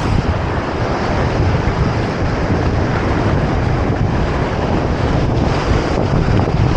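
Wind buffeting the microphone in a heavy, uneven rumble over the steady wash of ocean surf.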